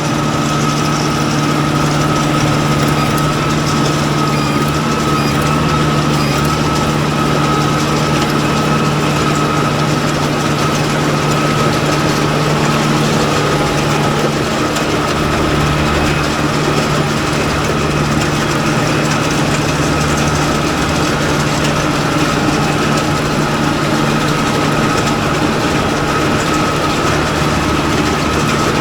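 Tractor engine running steadily under a constant load, with a steady high whine over a low hum.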